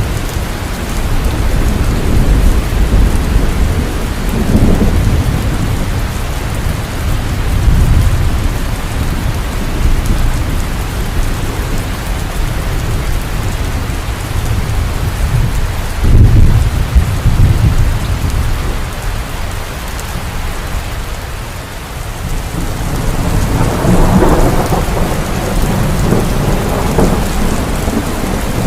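Heavy steady rainfall with rolling thunder: deep rumbles swell and fade several times, the loudest about sixteen seconds in, and a more crackling roll begins near the end.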